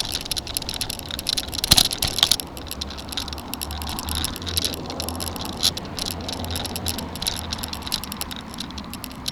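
Bicycle being ridden, its parts rattling with a run of quick clicks and a couple of harder bumps about two seconds in, over a steady low rumble.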